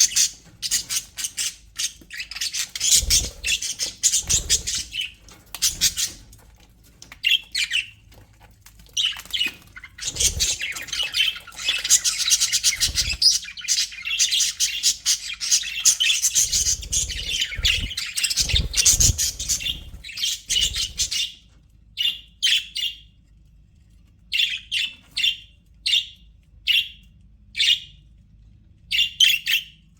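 A group of budgerigars chattering and warbling in dense, busy stretches, then giving short separate chirps about once a second near the end. A few low thuds sound under the chatter.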